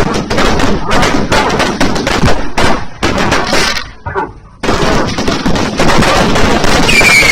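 Firecrackers and fireworks going off in rapid strings of sharp bangs, like gunfire, with a brief lull about four seconds in before they start again.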